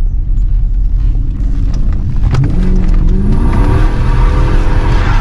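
2013 Dodge Charger R/T's 5.7-litre Hemi V8 rumbling, then revving up about two seconds in and holding at high revs. A loud rushing hiss builds with it, the rear tires spinning on the wet road in a burnout.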